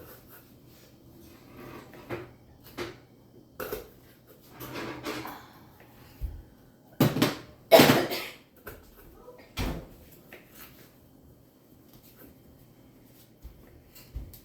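Kitchen clatter: scattered knocks and handling of utensils and containers, with the loudest clatters about halfway through.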